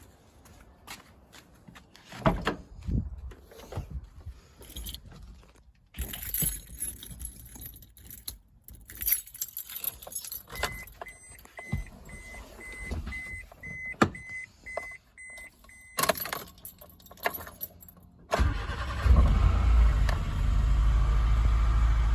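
Keys jangling and rattling, then a car's warning chime beeping steadily for about five seconds. About 18 seconds in, the Mira Gino's swapped-in Copen JB four-cylinder turbo engine starts and keeps running with a loud low rumble.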